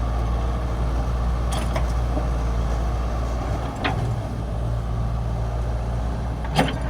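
Hitachi mini excavator's diesel engine running steadily, with a few short sharp knocks, the loudest near the end.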